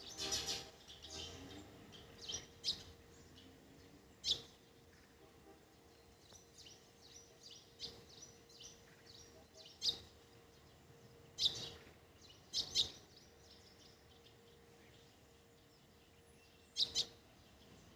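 Birds chirping outdoors, with short sharp calls at uneven intervals, several of them loud, over a faint steady hum.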